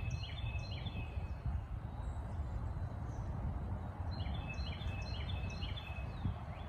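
A songbird singing a short phrase of quick repeated notes, heard at the start and again about four seconds in, over a steady low rumble.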